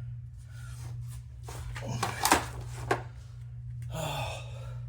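A few sharp knocks and clicks of handling about two to three seconds in, over a steady low hum, with a brief breathy hiss near the end.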